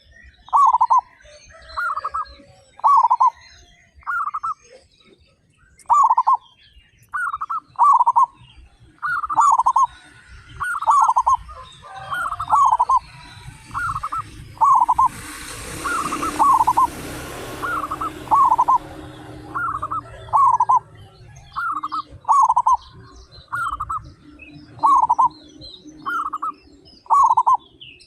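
Zebra doves (local perkutut) cooing over and over in short phrases of quick, clipped coos. Small birds chirp faintly above them, and a rushing noise swells and fades about halfway through.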